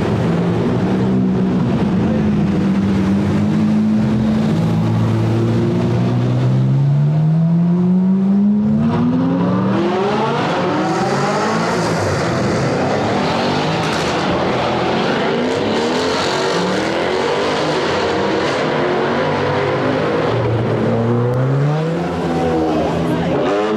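Sports car engines with loud aftermarket exhausts revving and accelerating. The pitch climbs in long sweeps as they rev. Several engine notes overlap and cross in the middle stretch.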